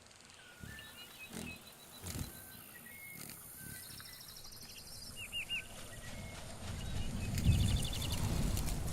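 Short animal chirps, whistles and quick trills, with a low rumble that swells up in the second half.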